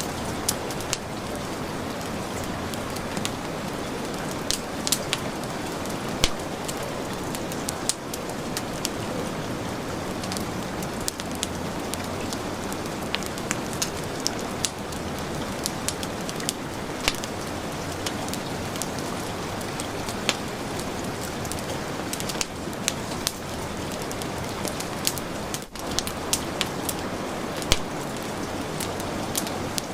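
Heavy rain falling in a steady, even hiss, mixed with a wood fire in a fireplace crackling, its sharp pops scattered irregularly through the rain.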